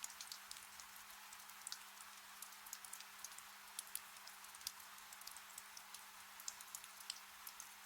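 Soft steady rain with many scattered individual drops ticking and pattering close by, over a faint low hum.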